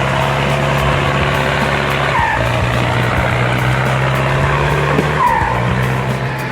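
Skidder's diesel engine running steadily under load, its pitch dipping briefly about two seconds in and again about five seconds in. Each dip comes with a short squeal that falls in pitch.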